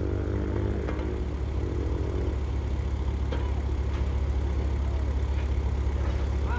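A vehicle engine idling with a steady low drone. A higher engine tone over it fades out a little over two seconds in.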